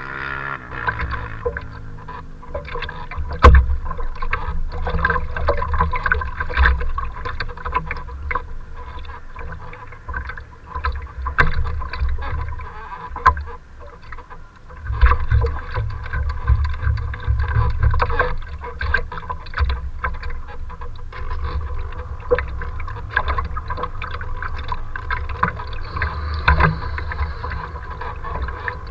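Choppy water slapping and splashing, with gusty wind rumbling on the microphone and a faint steady tone underneath.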